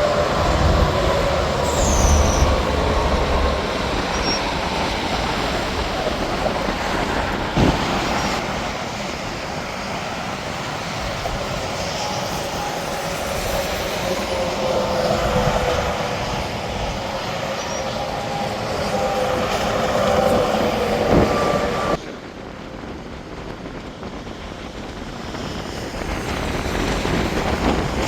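Interstate highway traffic, trucks and cars going past at speed: a steady rush of tyre noise with whines that fall in pitch as the vehicles go by. The level drops suddenly about three quarters of the way through.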